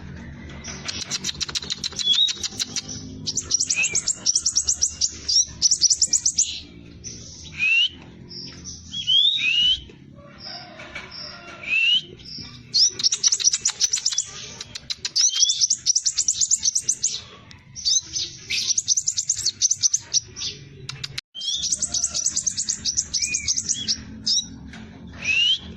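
Sepah raja (scarlet minivet) singing its rapid rolling song: bursts of fast, tightly packed high notes a second or two long, broken by short rising whistles, repeated over and over.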